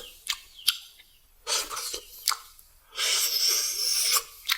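Close-miked eating ASMR sounds: a few sharp clicks and a short rustle, then a loud hissing rustle lasting about a second near the end.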